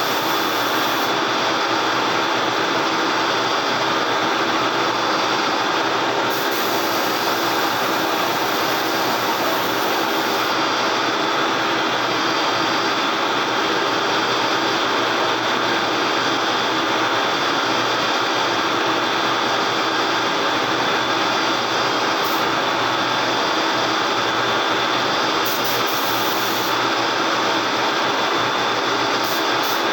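A body-shop tool running steadily without pause, a continuous whirring hiss.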